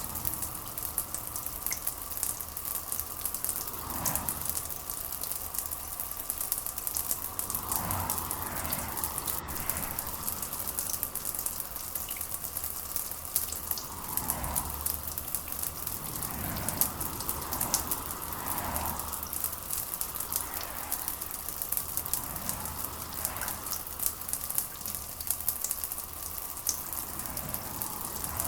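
Steady rain falling: a dense, even pattering hiss, with softer swelling sounds every few seconds underneath.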